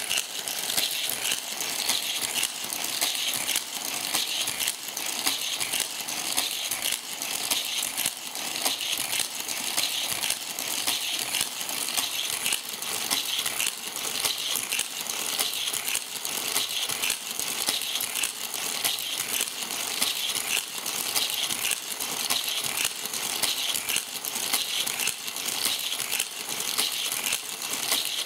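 Die-cast Hot Wheels toy cars rattling along plastic Hot Wheels track: a steady, unbroken stream of small clicks and clatter.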